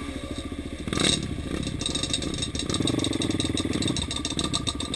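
ATV engine running and revving, its firing quickening from about two seconds in, with some rattling from the machine.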